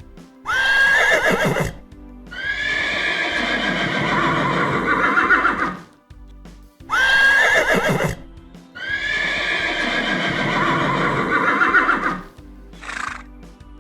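A loud animal call heard twice: a short high cry with a wavering held pitch, then a longer, harsher call lasting a few seconds. Background music plays underneath.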